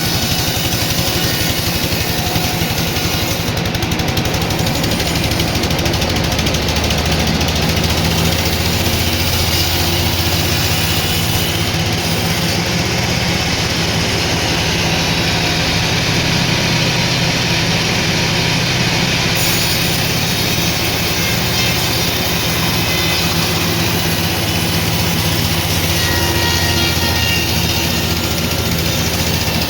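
Sawmill machinery running steadily: a low hum under a dense, even noise.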